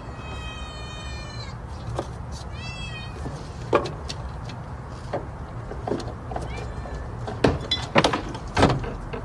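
Dog whining twice in high-pitched calls, the first held for about a second and a half and the second sliding down, over a steady low rumble. Several sharp knocks follow in the later part, the loudest near the end.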